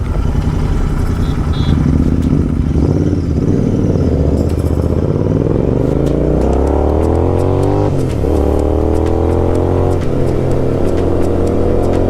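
Royal Enfield GT Continental 650's parallel-twin engine through an aftermarket Gursewak exhaust, the bike accelerating. The engine pitch holds fairly steady, then climbs, drops sharply at a gear change about eight seconds in, climbs again, drops at another shift about ten seconds in, and climbs once more.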